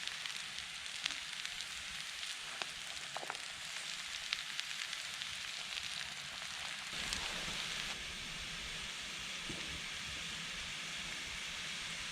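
Potatoes, onion and mushrooms frying in lard in a pan: a steady sizzle with a few sharp pops in the first half.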